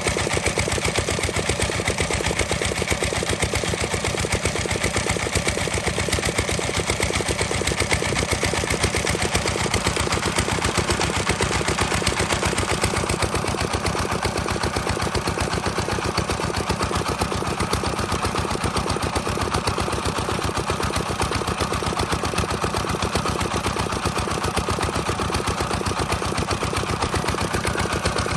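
Diesel engine driving a water pump, running steadily with a rapid, even knocking beat.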